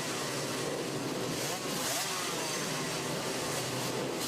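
A field of MotoGP racing motorcycles running at high revs, several engines at once, their overlapping notes rising again and again as they accelerate and shift.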